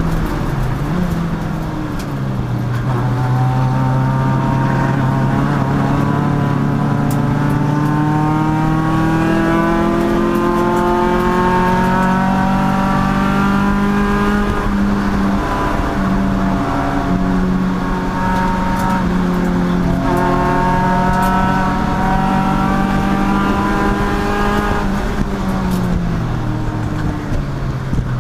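Race car engine under hard acceleration on track, its pitch climbing steadily with a few brief drops at gear changes, then falling near the end as the car slows.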